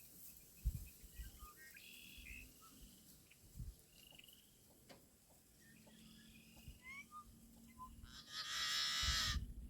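Blackbirds singing in a marsh: scattered short chirps and whistled notes, then near the end one loud, harsh, buzzing song lasting just over a second. A few low thumps come and go underneath.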